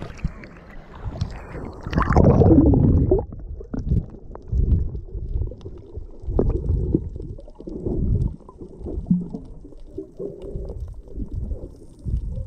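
Muffled, uneven sloshing and gurgling of sea water, loudest about two seconds in.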